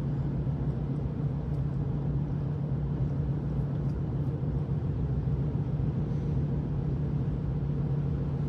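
Steady car cabin drone while driving at a slow cruise: engine and tyre/road noise with a constant low hum and no changes.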